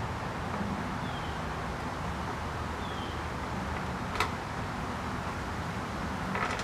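Steady low background rumble, with a single sharp click about four seconds in and a short rattle near the end, as small parts are handled while fitting a throttle cable to a small outboard motor.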